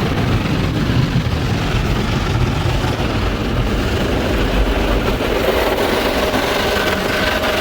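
Coleman Hanna conveyor car wash heard from inside the car: a steady heavy rumble and hiss of the cloth brushes and spray working over the body. A faint steady whine joins about two-thirds of the way through.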